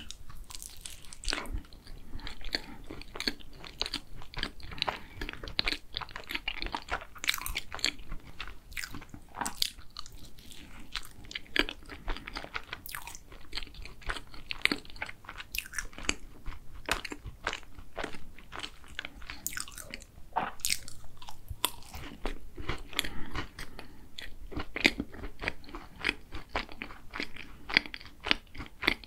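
Close-miked biting and chewing of a crisp-crusted green tea and chocolate tart, with many sharp crunches of pastry breaking between the teeth.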